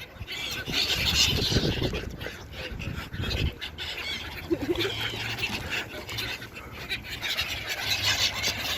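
A flock of seagulls calling.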